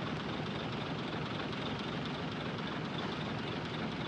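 Heavy diesel earthmoving machinery running steadily, a constant engine and machine noise with no separate knocks or revving.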